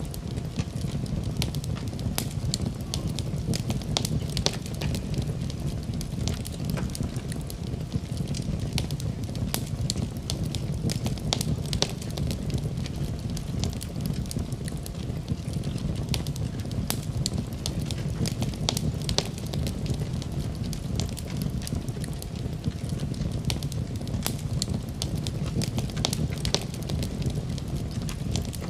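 Wood fire burning in a fireplace, with a steady low rumble of the flames and frequent sharp crackles and pops scattered throughout.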